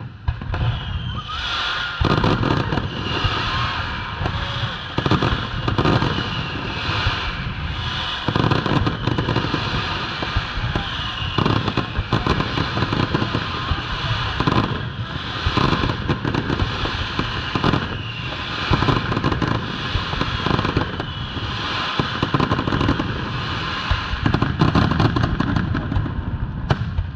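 Fireworks finale: aerial shells bursting in rapid, overlapping succession. After a few lighter bangs, it becomes a dense, continuous barrage about two seconds in.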